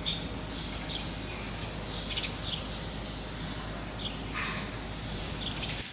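Small birds chirping, short scattered calls over a steady low background rumble.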